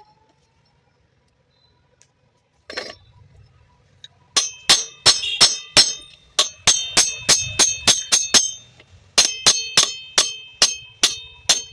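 Repeated sharp metal-on-metal taps, each with a bright ring, about three a second, starting about four seconds in with a short break near the ninth second: a hammer striking a metal part of the mixer jar during repair.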